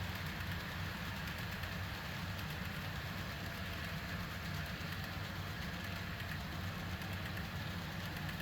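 Model GE ES44 diesel locomotive's Blunami sound decoder playing a steady diesel engine sound, a low running hum with a faint high whine above it.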